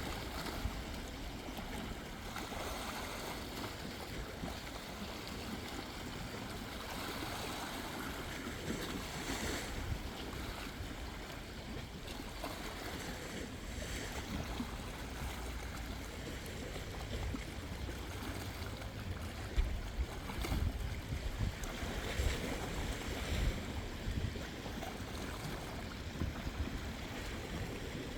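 Steady wash of water with wind rumbling on the microphone, gusting stronger about two-thirds of the way through.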